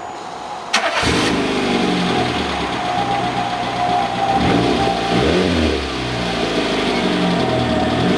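Peugeot 206 engine starting through an aftermarket Scorpion exhaust, catching with a sudden burst about a second in, then running steadily with a brief rev rising and falling in the middle and the start of another near the end.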